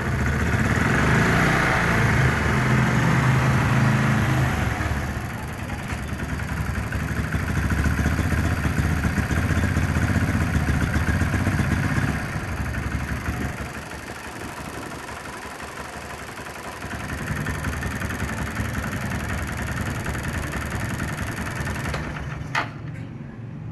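Motorcycle engine running on a hybrid HHO/gasoline-vapor carburetor, its speed rising and settling back a few times between idle and a light rev. A single sharp click comes near the end, after which the engine sound drops away.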